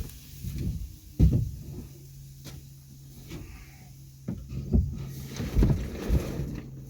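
A steady low hum, with several irregular knocks and clunks over it.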